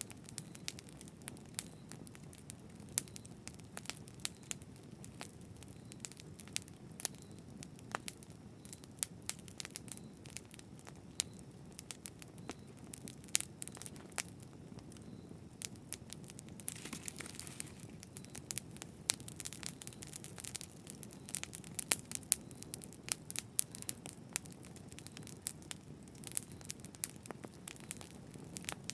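Campfire burning: wood crackling and popping in frequent sharp snaps over a low steady rumble of flame. A short hiss rises about seventeen seconds in.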